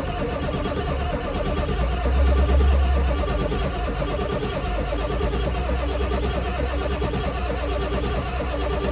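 Ford 7.3 IDI turbo diesel V8 cranking over steadily on its starter with a fast, even rhythm, not yet catching. The engine is trying to fire but won't run on its own.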